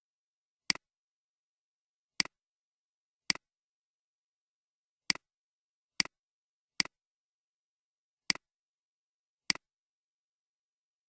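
Computer mouse clicks: eight single clicks at uneven intervals, each a sharp press followed at once by a fainter release, with silence between them.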